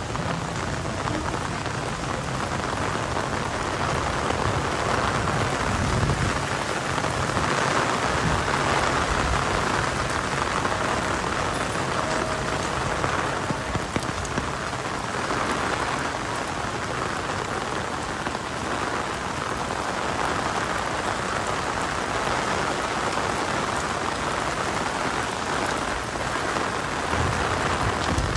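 Steady rain falling, a continuous hiss of drops that grows a little louder for several seconds partway through.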